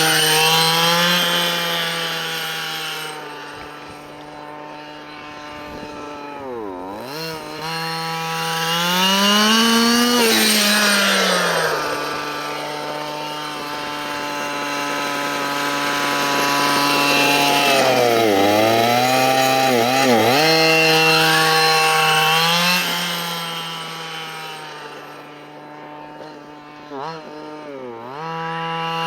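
Dynamite CY23cc 23cc two-stroke gas engine of a 1/5-scale Losi Desert Buggy XL running during its break-in. Its speed rises and falls over and over, dropping sharply and picking back up several times, and it grows quieter for a few seconds twice.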